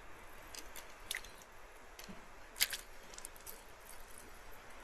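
Scattered drips and small splashes of water, the loudest a little past halfway, over a steady hiss of flowing river water.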